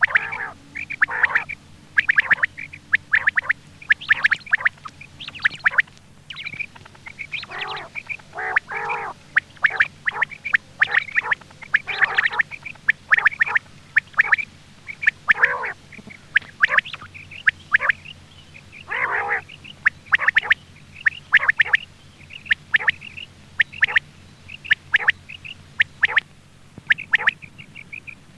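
Quail calling over and over in short, sharp notes, about two to three a second, with a few longer, harsher calls among them: a quail call used to lure quail for hunting.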